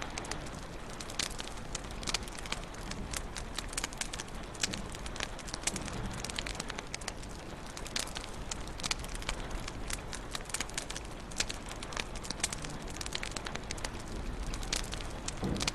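Wood fire burning in a fireplace: frequent irregular crackles and pops over a steady low hiss.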